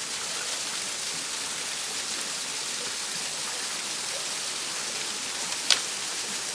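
Steady hiss of rushing water from a stream or waterfall. A single sharp click a little over five seconds in.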